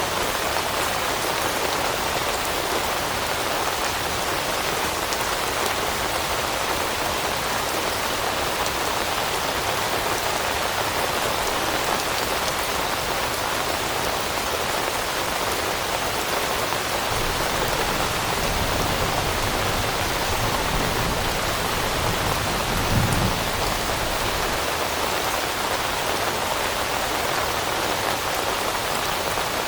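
Steady rain pattering on leaves, an even hiss of raindrops that does not let up. A low rumble swells about two-thirds of the way through and peaks briefly.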